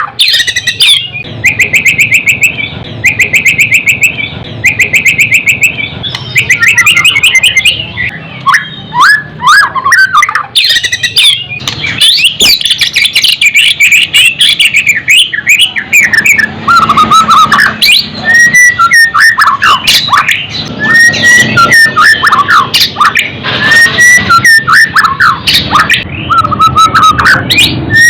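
White-rumped shama (murai batu) singing loudly and without pause. Its song runs through rapid trilled note series, quick whistled glides and harsh scolding notes, the full-throated 'fighting' song that keepers train for.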